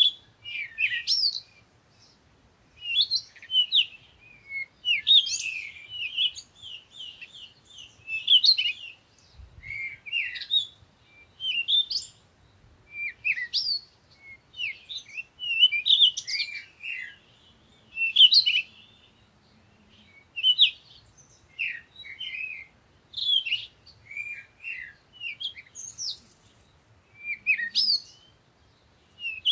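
Songbirds chirping and singing: short phrases of quick, high notes that repeat every second or two, with brief pauses between them.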